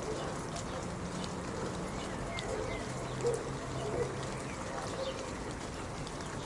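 Rain falling: a steady hiss with the patter of many individual drops ticking through it, and a low steady hum underneath.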